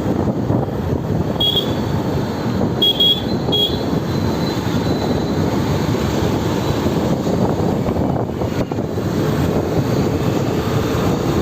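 Wind rushing over the microphone with traffic noise during a motorcycle ride, steady throughout. Three short high beeps come about one and a half to three and a half seconds in.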